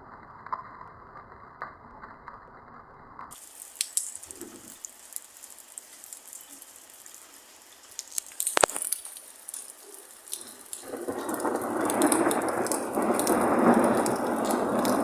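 Thunderstorm: steady rain with a single sharp thunder crack about eight and a half seconds in, then the storm grows much louder from about eleven seconds.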